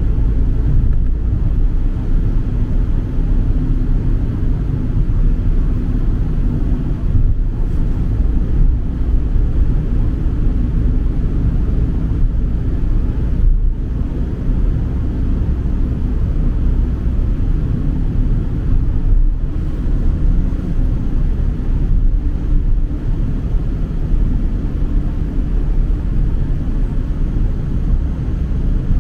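Strong wind buffeting the microphone outdoors, a loud, steady low rumble, as the wind picks up ahead of an approaching typhoon.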